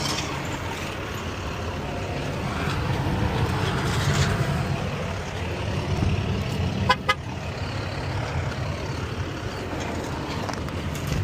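Truck engine running steadily with a low rumble, and a brief, quick high beeping about seven seconds in.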